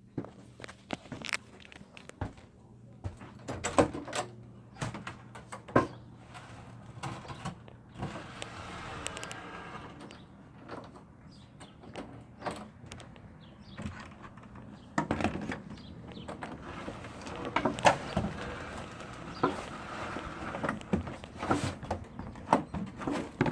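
Irregular knocks, clicks and rustling of someone moving about and handling things, such as a bucket and a door, with no steady source.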